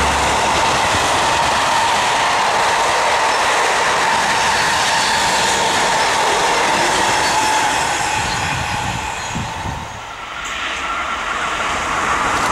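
Wagons of a works train rolling past close by, wheels clacking over the rail joints with a steady high whine from the wheels. The noise dies away about ten seconds in, then rises again as a second train approaches near the end.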